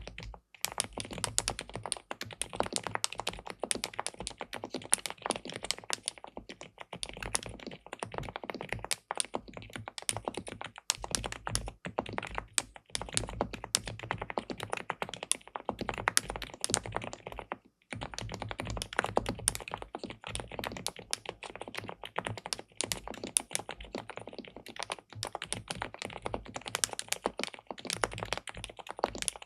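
Continuous fast typing on an SPM PL87W 'Mongdol87' tenkeyless mechanical keyboard with linear switches on a polycarbonate plate: a dense run of key clacks, with one short pause a little past the middle.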